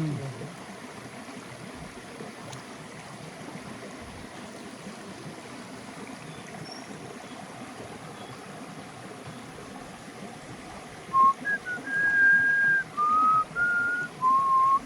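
Steady rush of stream water. About eleven seconds in, someone whistles a short tune of about seven held notes at shifting pitches, the loudest sound present.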